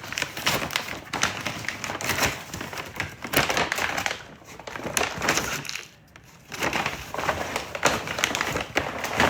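Plastic packaging crinkling and crunching in irregular bursts, with a brief pause about six seconds in, as a pack of instant noodles is handled.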